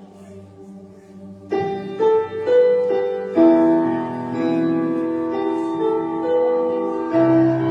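Instrumental introduction: a soft held chord, then about a second and a half in, the ensemble comes in louder with piano-like notes carrying a slow melody over sustained harmony.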